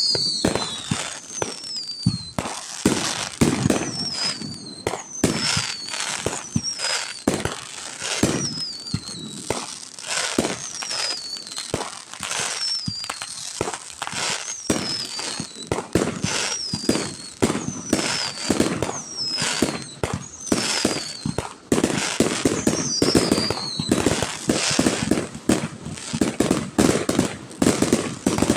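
Fireworks display: a steady series of bangs and booms, with short whistles that fall in pitch sounding again and again. In the last several seconds the bangs come thick and fast as rapid crackling.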